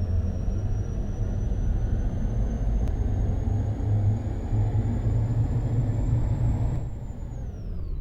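Ashok Leyland truck's diesel engine running on the move, a heavy low rumble with a thin high whine that climbs slowly, then drops away near the end as the rumble eases.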